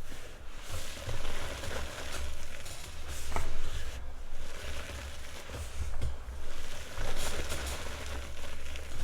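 Gym chalk being crushed and crumbled, a crackling, crunching noise that swells and fades in waves with small clicks through it.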